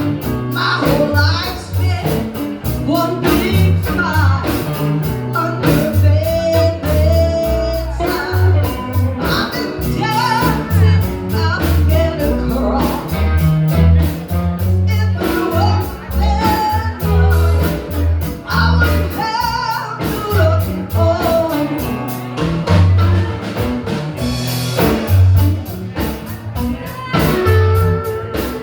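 Live blues band playing: a walking bass line, drums and electric guitar under a singing lead line.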